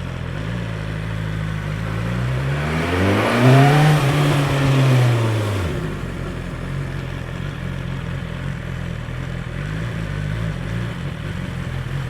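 2021 BMW S 1000 XR's inline-four engine on its stock exhaust, idling, then revved once: the pitch climbs about two seconds in, peaks, and drops back to a steady idle at about six seconds.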